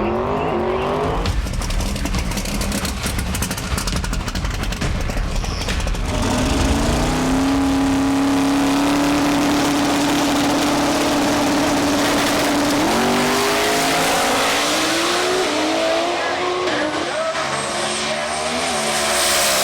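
Drag-racing car engine staging and launching. After a stretch of rough, rattly running, the engine rises to one steady held pitch for about five seconds, as if held on a launch limiter. About two-thirds of the way in it climbs in steps through gear changes on a full-throttle pass.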